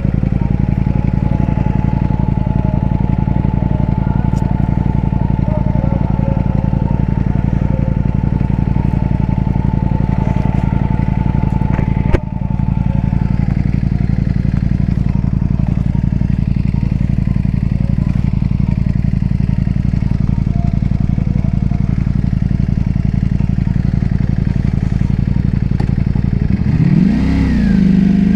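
Ducati V4 superbike engine running at a steady pace while riding, with wind and road noise. It is loud throughout, drops out for an instant about 12 seconds in, and revs up and down briefly near the end.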